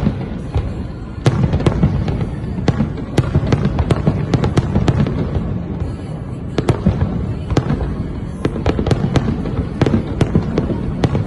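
Fireworks display: rapid sharp bangs and crackles from bursting aerial shells, several a second, over a continuous low rumble.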